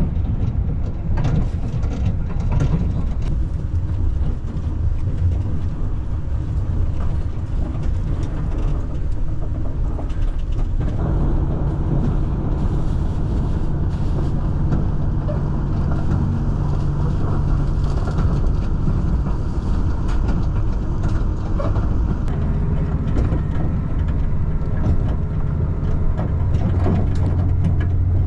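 Yufuin-no-mori diesel train running, a steady low rumble. About 11 s in a steady low engine drone joins it and holds to the end.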